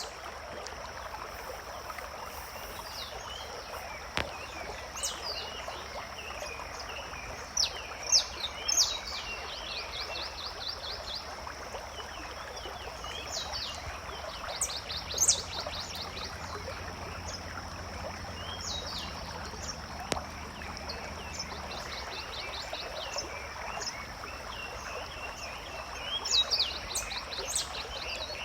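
Forest ambience: a stream trickling steadily while a songbird sings short phrases that end in a fast trill, repeated several times, over a constant high-pitched hum.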